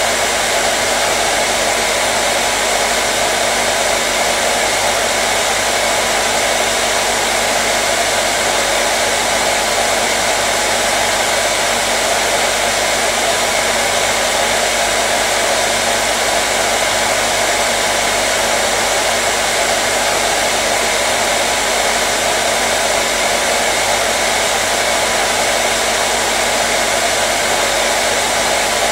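Hair dryer running steadily on one setting: a continuous, unchanging rush of blown air with a faint motor hum.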